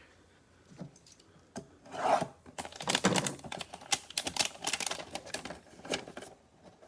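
Small cardboard boxes and packaging being handled, with irregular clicks, taps and short scrapes.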